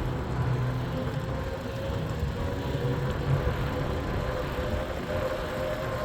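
E-bike riding along: steady wind and road rumble with a thin, steady whine that edges up slightly in pitch.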